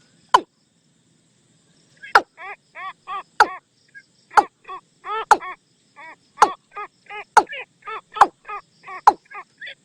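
Watercock calling as a decoy lure: a quick run of short repeated notes, about four a second, broken by sharp loud clicks roughly once a second. The calls stop briefly near the start and then run on steadily.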